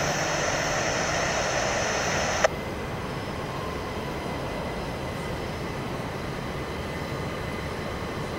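Passenger train running on a far track, a steady low rumble with faint tones. For the first two and a half seconds a louder steady hiss lies over it, cutting off abruptly with a click.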